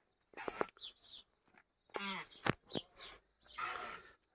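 Scattered short bird chirps outdoors, with one sharp knock about two and a half seconds in and a brief pitched call just before it.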